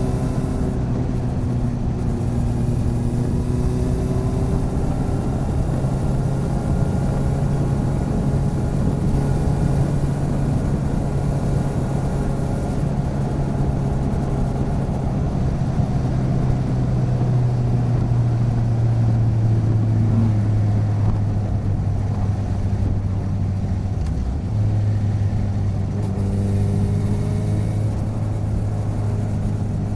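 Motorcycle engine running steadily while riding, with road and wind noise. Its pitch eases slowly lower, with a brief dip about three-quarters through before it carries on.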